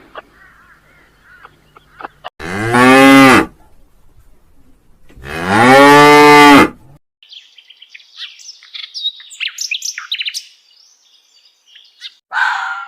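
A cow mooing twice: two loud, drawn-out calls, each rising and then falling in pitch.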